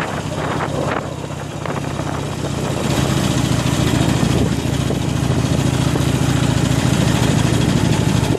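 Harley-Davidson Iron 883's air-cooled V-twin engine running as the motorcycle rides along, growing louder about three seconds in.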